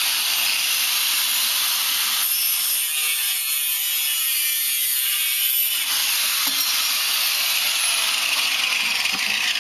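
Angle grinder cutting through metal on a door post: a steady, loud, high-pitched grinding whine. For a few seconds in the middle the sound thins out, the disc loading differently in the cut.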